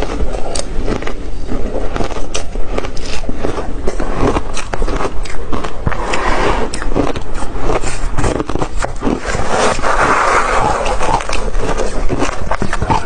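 Close-miked crunching of ice being bitten and chewed: a dense, unbroken run of sharp cracks and crunches.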